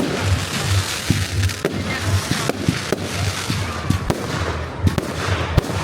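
Fireworks display: many sharp bangs in quick succession over a steady crackling hiss. A low pulse repeats about twice a second underneath.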